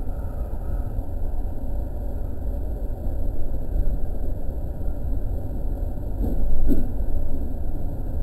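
E217-series electric train running slowly, heard from inside the front of the train: a steady low rumble, with a few short knocks of the wheels about six to seven seconds in.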